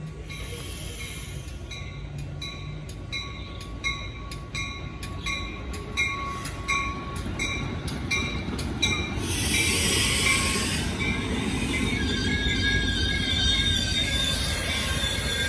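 Metra commuter train passing at close range. A steady rumble carries a run of regular clicks, about one and a half a second, then a loud hiss about ten seconds in, then high wheel squeal in the last few seconds.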